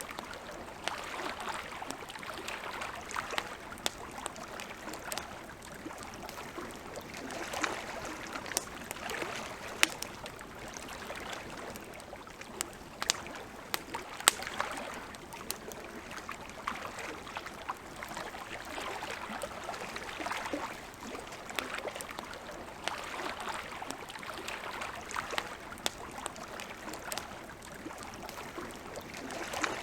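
Wood campfire crackling, with frequent sharp pops and snaps over a steady hiss that swells and fades; two louder pops stand out, about ten and fourteen seconds in.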